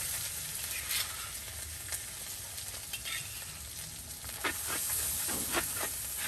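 Ground spice paste with milkfish sizzling as it is stir-fried in a hot wok, with a few scrapes and taps of a stainless-steel spatula as the paste is scooped in and stirred.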